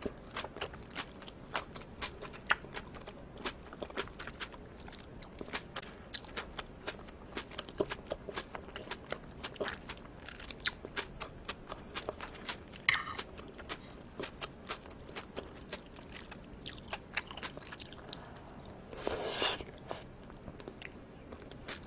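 Close-miked, wet chewing of aged raw yellowtail amberjack sashimi: a dense, irregular run of small sticky mouth clicks and smacks. Near the end comes one longer, louder mouth sound.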